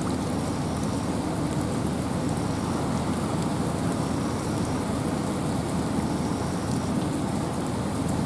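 Steady rain falling through a forest with wind, an even rushing wash strongest in the low range, with scattered sharp ticks of drops striking.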